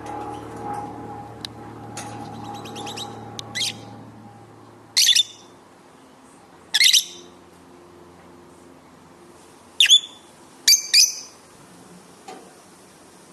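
Lovebirds calling: quick high chirps early on, then four loud, short, sharp calls spread through the second half. A low steady hum runs underneath at first and fades out about four seconds in.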